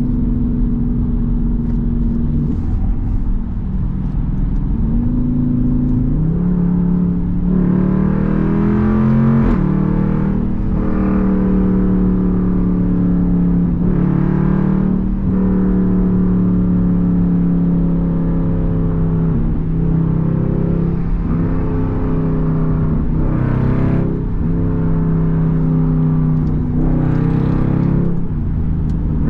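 Straight-piped Jeep Grand Cherokee SRT's V8 exhaust, heard from inside with the rear windows down, pulling through the gears in traffic. Its pitch climbs and drops back at each shift, several times over.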